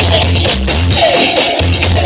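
Loud remix music through a big carnival sound system, with heavy pulsing bass and a melody on top.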